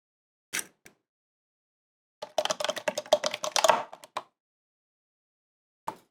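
Quick clicking and tapping of kitchen utensils: a couple of single clicks, then a rapid run of clattering taps lasting about two seconds, and one more click near the end.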